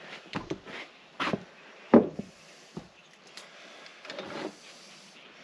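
Scattered light clicks and knocks of a chainsaw and tools being handled on a workbench during port-timing checks, with the sharpest knock about two seconds in.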